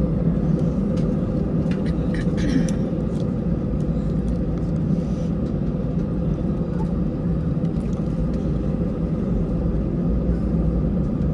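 Airbus A320 cabin noise while taxiing: a steady low drone of the jet engines and airflow with a constant hum over it. A few faint clicks come about two seconds in.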